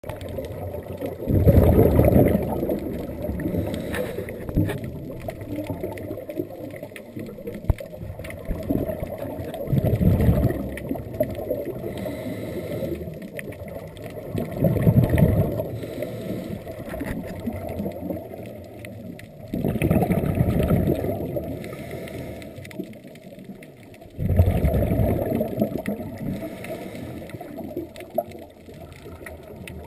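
Scuba diver's exhaled bubbles from the regulator, heard underwater: a burst of bubbles about every five seconds with a low steady rumble between.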